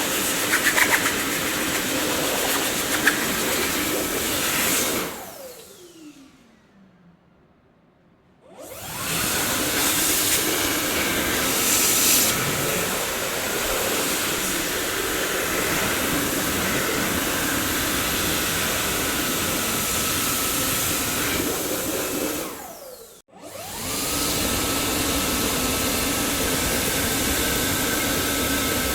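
Dyson vacuum cleaner running with a steady rushing noise. It is switched off about five seconds in, its motor whine falling away to near silence, and switched back on about three seconds later, spinning up again. Past the middle it cuts out once more and restarts within about a second, its whine rising back to a steady pitch.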